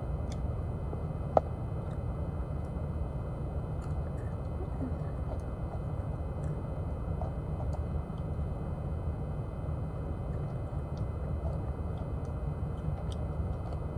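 A steady low rumble, like a vehicle or machine running, with one sharp click about a second and a half in.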